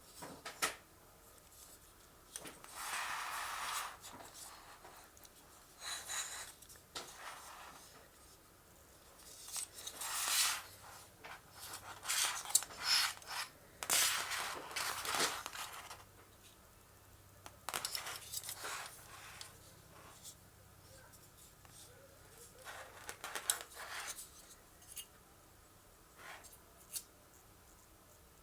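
Hands working on computer parts: irregular bursts of rustling, scraping and snipping, with sharp clicks and short quiet gaps between them.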